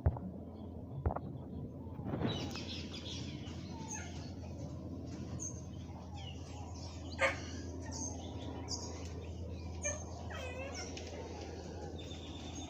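Small birds chirping in short, repeated, curving calls over a steady low hum, with a few sharp clicks or knocks.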